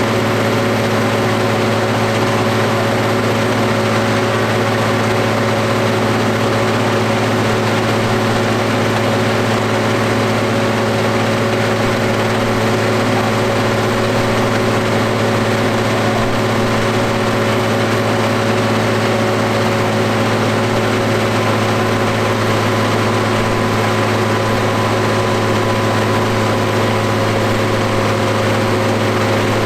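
McCormick X7.670 tractor engine running on a dynamometer, held at one steady speed with an unchanging pitch and no revving.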